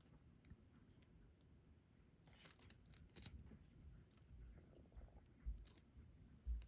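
Faint, scattered small clicks and light rustling of diamond-painting work: a stylus picking up resin drills and pressing them onto the adhesive canvas. A few soft low thumps come near the end.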